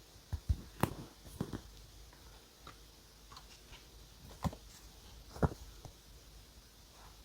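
Scattered small taps, clicks and knocks of stationery and paper being handled on a desk during journaling. There is a cluster in the first second and a half, and single sharper knocks about four and a half and five and a half seconds in.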